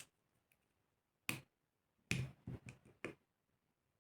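Sharp clicks and light taps of hand tools on the parts of a Saito FA-300T model engine being taken apart: one about a second in, then a quick run of several more.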